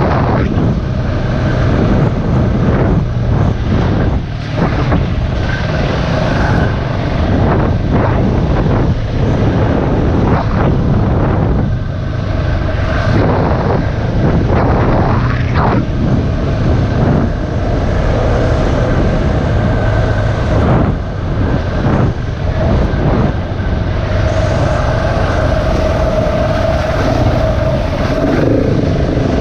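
Single-cylinder dirt bike engine running as the bike is ridden along a trail, its revs rising and falling with the throttle and held steadier near the end. Wind buffets the microphone.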